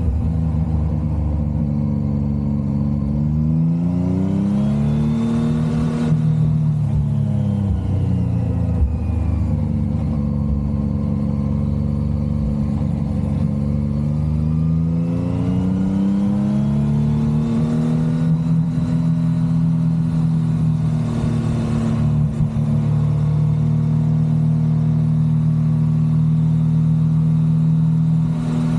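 Motorcycle engine under way, its pitch rising as it accelerates, dropping back, rising again, then holding steady.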